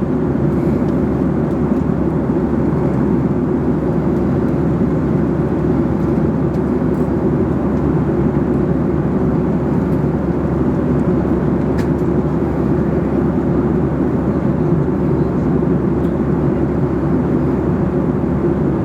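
Steady cabin noise of an airliner in cruise: an even, deep rush of engine and airflow noise that does not change.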